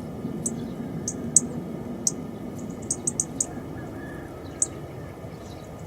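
Small garden songbirds giving short, sharp, high call notes, about a dozen scattered chips, over a steady low background rumble.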